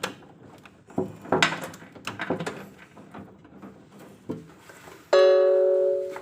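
Scattered knocks and clatter of hand work, then near the end a loud, steady, buzzing tone at a fixed pitch lasting about a second before it cuts off.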